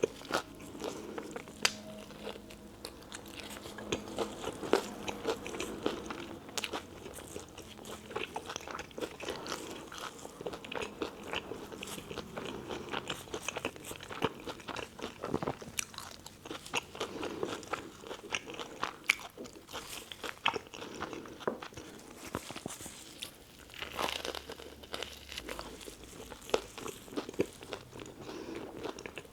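Close-miked eating of a tuna melt sandwich: crunchy bites into the toasted bread and chewing, a dense run of small crackling clicks.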